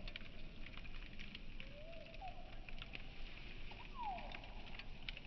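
Campfire crackling and popping, slowed to quarter speed: scattered pops over a steady hiss, with a few faint gliding tones, one rising about two seconds in and one falling about four seconds in.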